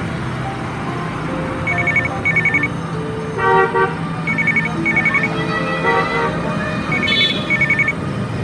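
A trilling ring sounds in pairs of short bursts, repeating about every two and a half to three seconds, over a steady hum of street traffic.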